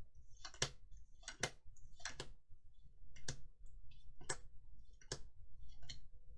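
Trading cards being handled and flicked through one at a time, a sharp click or snap about once a second at uneven spacing, over a faint steady tone.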